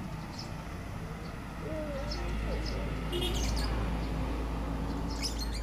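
Pet lovebird giving short, high-pitched chirps at irregular intervals, the loudest clusters about three seconds in and near the end, over a low steady rumble that grows louder partway through.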